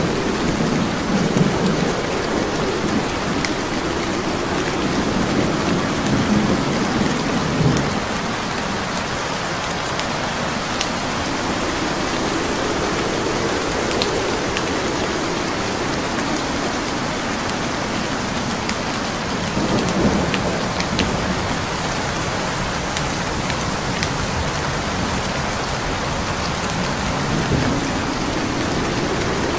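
Steady rain with slow low rumbles of thunder in the first few seconds, again about two-thirds of the way through, and near the end. Scattered sharp crackles from burning logs in a fireplace pop over the rain.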